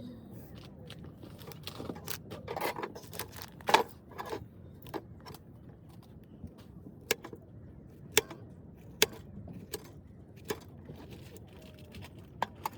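Scattered sharp clicks and clinks of small hard objects being handled, about a dozen separate knocks, the loudest a little under four seconds in, over a low steady background.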